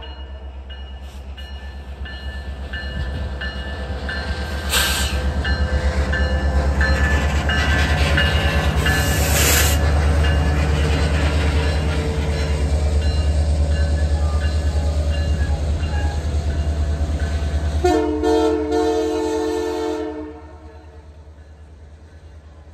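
Canadian Pacific diesel train rolling past: a steady deep rumble that builds over the first ten seconds as the locomotive goes by, with a bell dinging steadily in the first half. Near the end the train horn sounds one chord for about two seconds, then the sound drops to the quieter rolling of the boxcars.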